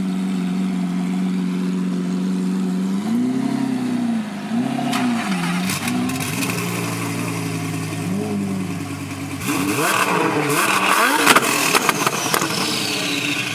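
Lamborghini supercar engines droning with repeated quick rev blips. About nine seconds in, a hard full-throttle acceleration follows, with rising pitch and crackles.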